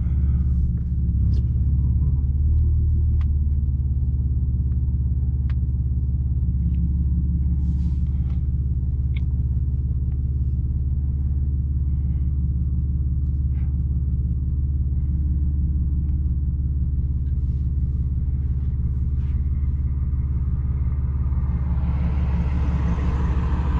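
Audi S4's supercharged 3.0 V6 with AWE exhaust and test pipes, idling steadily, heard from inside the cabin. Near the end a rushing sound builds as the car moves off.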